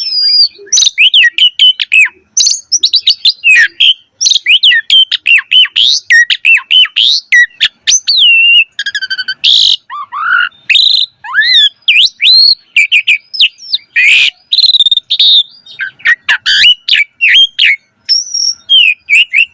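An Asian pied starling (jalak suren) singing a long, varied song: a fast, unbroken run of chirps, whistled glides, trills and harsh rasping notes, with a few rising whistles about halfway through.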